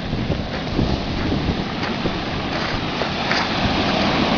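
Ocean surf breaking and washing in on the beach, mixed with wind buffeting the microphone, growing a little louder near the end.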